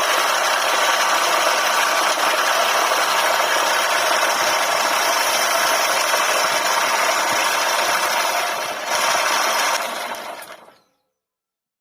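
Woodworking lathe running steadily with a loud, even grinding noise of wood being worked, which dies away about ten seconds in.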